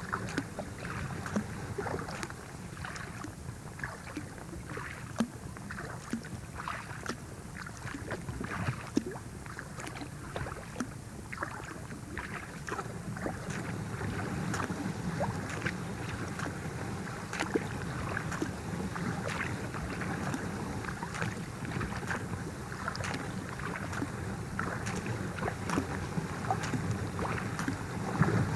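Thin sheet ice cracking and crunching as a kayak breaks through it, with many sharp, irregular cracks and clinks over a steady rustling.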